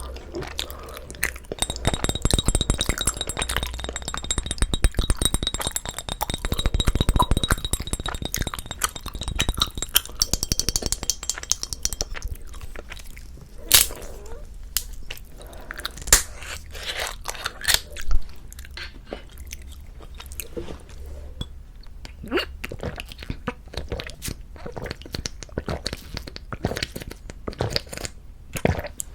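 Close-miked chewing of soft, sticky rice cake (tteok): wet, sticky mouth sounds and smacks. A dense, crackly stretch in the first ten seconds or so gives way to scattered sharp clicks.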